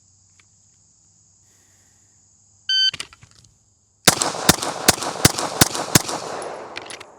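Shot-timer beep, then a little over a second later a bill drill: six handgun shots in quick succession, about three a second, echoing across the range. Insects keep up a steady high buzz throughout.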